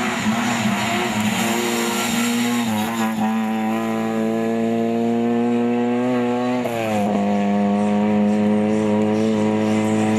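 Rally car engine running hard at high revs, its pitch held nearly steady. The pitch drops at a gear change about three seconds in and dips and recovers again around seven seconds in.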